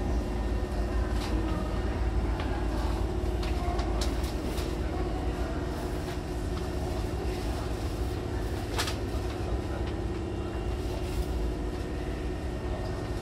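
Hankyu commuter train standing at the platform with its doors open, a steady low hum with a few sharp clicks, the clearest about nine seconds in.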